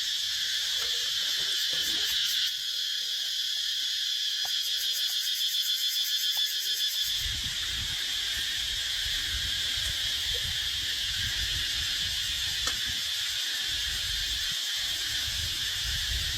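Steady chorus of insects chirping, pulsing rhythmically for a few seconds near the middle. A low rumble joins about halfway through.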